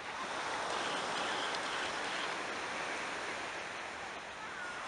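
Black Sea waves washing onto the shore, a steady hiss of surf that swells briefly just after the start and eases off toward the end.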